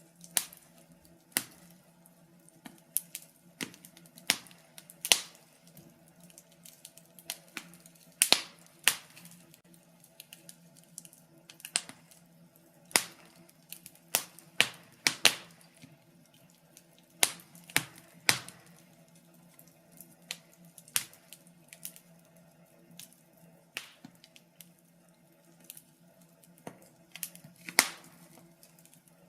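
Wood fire in a fireplace crackling: irregular sharp pops and snaps, about one or two a second, some much louder than others, over a faint steady low hum.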